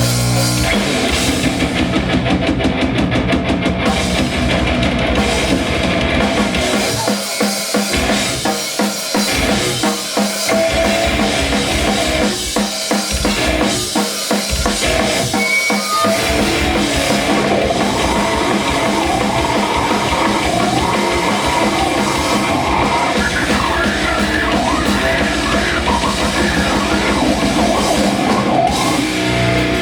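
Live rock band playing loud and fast: drum kit, distorted guitar and bass. In the middle the low end breaks into short stop-start hits before the full band comes back in.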